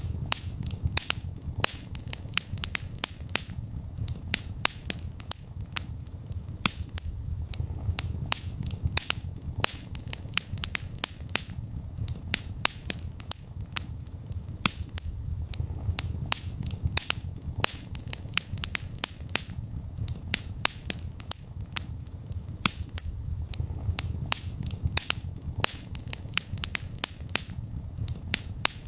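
Wood fire crackling in a fireplace: sharp pops and snaps several times a second over a low rumble of the flames that swells and fades every few seconds.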